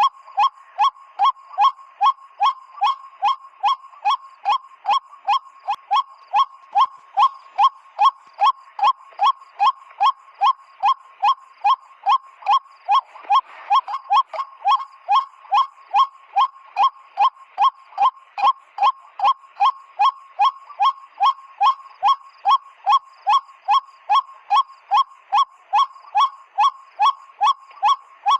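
A PVC pipe bird call blown over and over to imitate the white-breasted waterhen's 'kwak' call as a lure: short, even notes at about two a second, with no change in pace.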